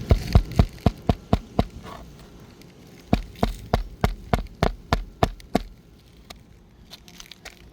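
Hammer striking an asphalt-shingle roof in two quick runs of blows, about four a second: about seven blows, then a pause of over a second, then about ten more.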